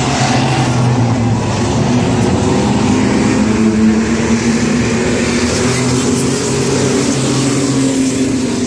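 Engines of racing trucks running on a short oval track, a loud steady drone whose pitch creeps up slightly in the middle.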